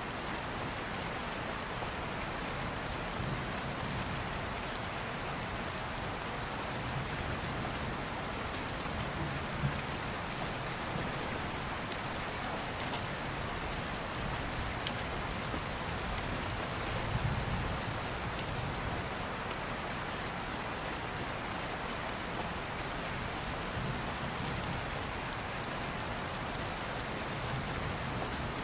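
Steady heavy rain, with low rolls of distant thunder swelling now and then, the strongest about two-thirds of the way through, and a few sharp pops like a log fire crackling.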